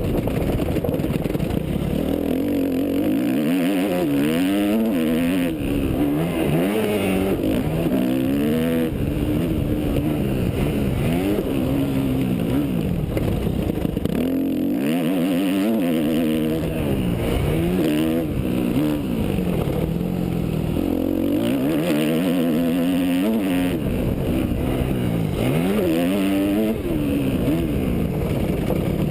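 Yamaha YZ250F dirt bike's single-cylinder four-stroke engine revving up and down over and over, its pitch climbing and then dropping back every second or two as the bike is ridden hard.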